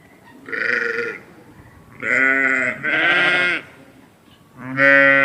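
A farm animal bleating four times: quavering calls, the middle two close together and the last running on past the end.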